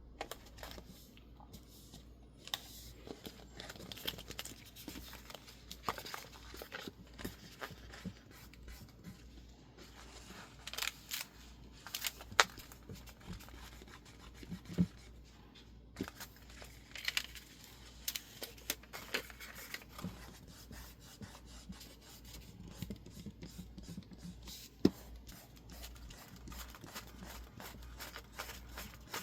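Close-up desk crafting with masking tape, label sticker paper and scissors: irregular snips, paper scrapes, rubs and small clicks, with a few sharper clicks.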